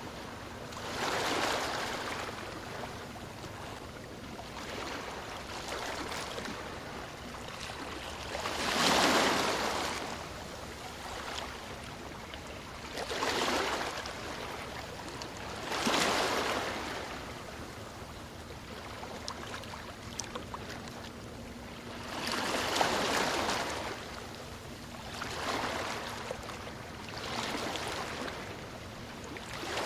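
Ocean waves breaking and washing up the shore: a rushing surge of surf every few seconds over a steady wash. The biggest surges come about nine, sixteen and twenty-three seconds in.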